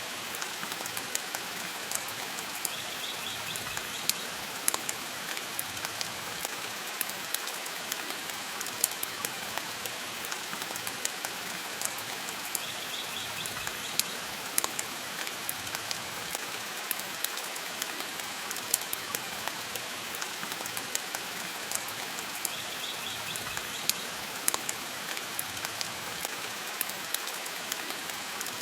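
Steady rain, an even hiss, mixed with the frequent sharp pops and crackles of a burning wood fire.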